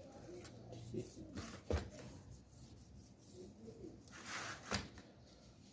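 Faint scraping and handling on an e-bike battery pack's plastic casing as it is being prised open, with a sharp click about a second and a half in and a short scrape followed by another click near the end.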